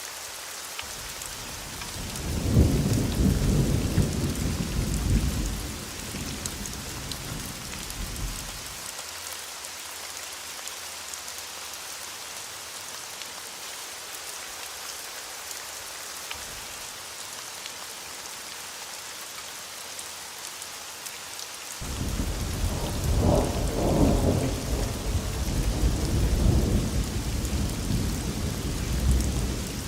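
Thunderstorm: steady rain hiss, with two long rolls of low thunder. The first swells a couple of seconds in and dies away a few seconds later. The second breaks in suddenly about two-thirds of the way through and keeps rolling.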